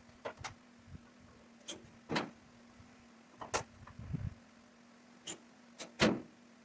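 Scattered knocks and clunks from hands-on shop work, about eight in all, the loudest about six seconds in, over a steady faint hum.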